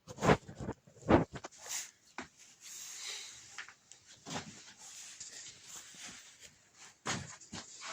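Hands working on a metal assembly: a few sharp knocks and clicks of parts and tools, the loudest about a third of a second in and just after a second, more near the end, with faint scraping and rustling between.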